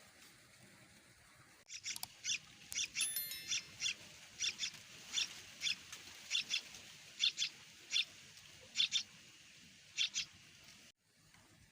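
Yellow-vented bulbul nestlings giving short, high-pitched begging cheeps, about two a second at uneven spacing. The cheeps start about two seconds in and stop shortly before the end. These are the hunger calls of nestlings waiting to be fed.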